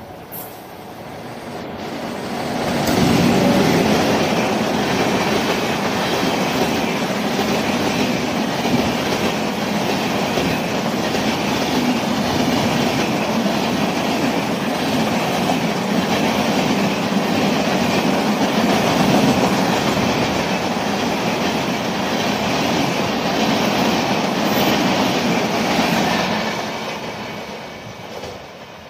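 Express passenger train passing at speed: the sound builds quickly over the first few seconds as the locomotive arrives, then a long steady rush of coach wheels on the track with clickety-clack over the rail joints, fading away near the end as the last coaches go by.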